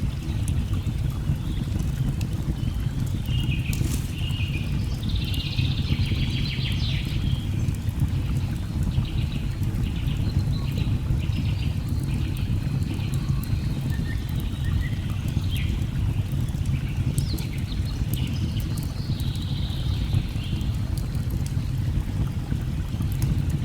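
Steady low roar of a waterfall, with birds chirping and calling in short, repeated phrases above it and a few sharp clicks now and then.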